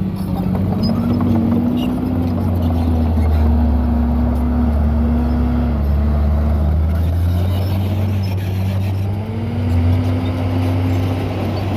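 Heavy diesel engine of a Komatsu D51PX crawler bulldozer running at work, its pitch dipping and recovering several times over a steady deep hum.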